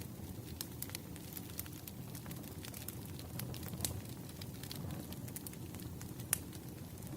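Wood fire crackling: a steady low rumble of burning logs with scattered sharp pops, the loudest about six seconds in.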